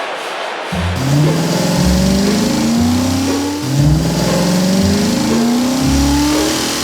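Cartoon car engine sound effect revving up, starting about a second in. Its pitch climbs slowly in two long rising sweeps.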